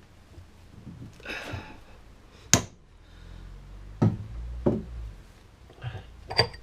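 A chisel knocked against a seized wheel-bearing outer race on a car's rear hub: a brief scrape about a second in, then about five sharp, unevenly spaced knocks. The race is not shifting.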